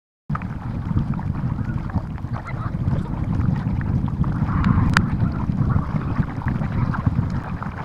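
Wind buffeting the microphone outdoors, a steady low rumble that cuts in abruptly about a third of a second in, with a single sharp click about five seconds in.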